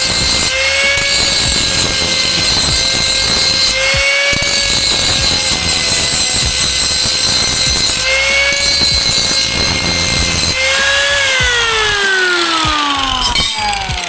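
Electric grinder grinding steel bar stock: a steady motor whine over a harsh grinding hiss. The pitch rises briefly every few seconds as the disc comes off the metal. Near the end the grinder is switched off and its whine falls steadily as it spins down.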